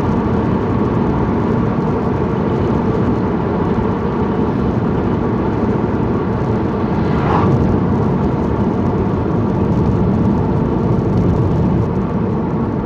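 Steady engine and road noise inside a moving car's cabin, with a brief higher-pitched sound about seven seconds in.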